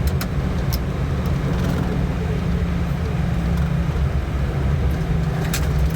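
Steady low rumble and hum of a jet airliner's idling engines, heard inside the cockpit while it taxis after landing. A few short sharp clicks sound near the start and again near the end.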